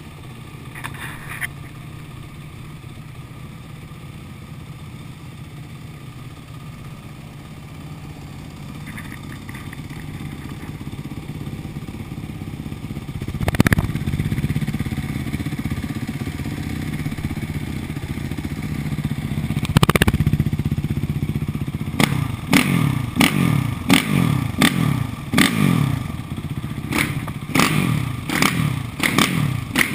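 Motorcycle engine, just given a full service, idling steadily, with two sharp knocks partway through; then a run of quick throttle blips, each revving up and dropping back, about one or two a second.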